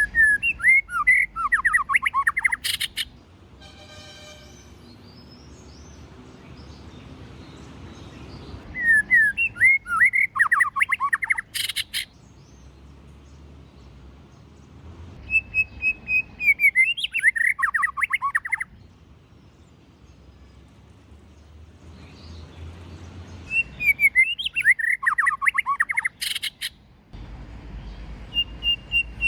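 White-rumped shama singing in repeated phrases of rapid, sliding whistled notes, each phrase about three seconds long with pauses of several seconds between; several phrases end in a sharp click.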